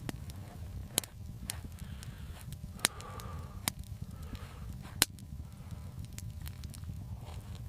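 A handful of irregular sharp snaps or cracks over a steady low rumble, the loudest about five seconds in.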